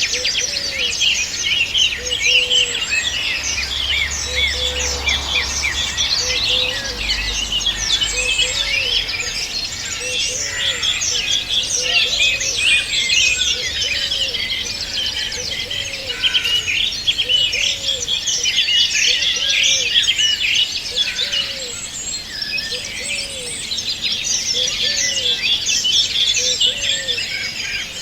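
A dense chorus of many small birds chirping and trilling at once, high-pitched and unbroken. Under it, a low hooked call repeats about once a second.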